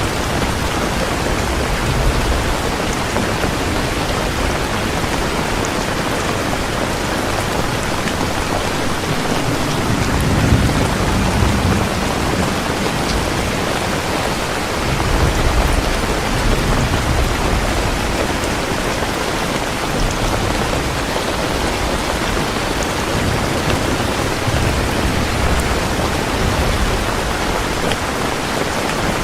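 Heavy rain falling steadily, a dense even hiss of drops. Low rumbles swell up twice, about ten and fifteen seconds in.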